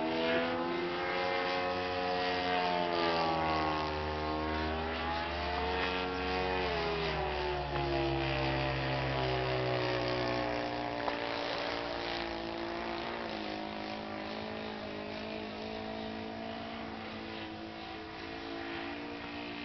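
Seagull Spacewalker 46 radio-controlled model airplane's engine and propeller running in flight, its pitch sweeping up and down as the plane passes, then fading gradually toward the end.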